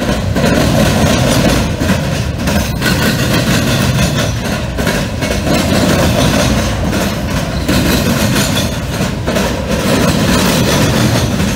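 Freight train of covered hopper cars rolling past close by: a steady, loud rumble of steel wheels on rail, with scattered clanks and clacks from the wheels and couplers.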